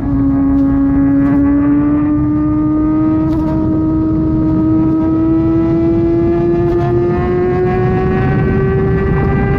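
Kawasaki ZX-6R's inline-four engine through an SC-Project exhaust, pulling steadily in one gear at highway speed, its note rising slowly throughout. It runs over a steady low rush of wind and road noise.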